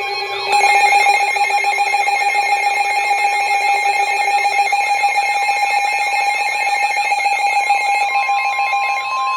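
Electronic emergency alert alarm: several steady tones layered together, with a rapid pulsing warble and sweeping siren-like tones. A new steady tone joins about eight seconds in.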